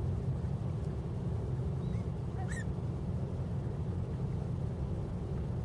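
A bird gives one short, harsh call about two and a half seconds in, over a steady low rumble.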